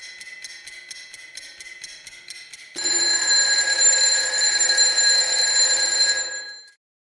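A bell ringing. It starts as a quiet, fast, regular ringing, then about three seconds in turns to a loud continuous ringing with steady high tones, which fades out shortly before the end.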